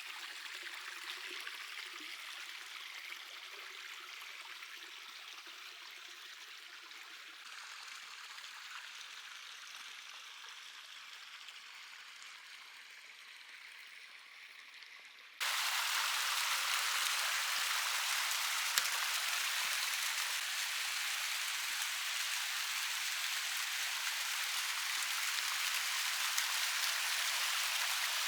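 Waterfall splashing: a steady rush of falling water, quieter over the first half, then suddenly much louder and fuller about halfway through.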